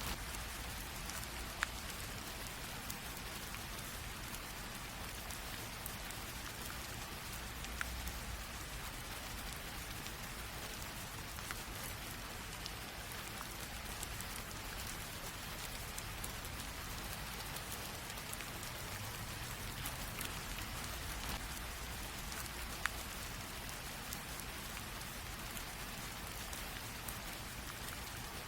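Light rain falling in a steady hiss, with a few sharper drop ticks.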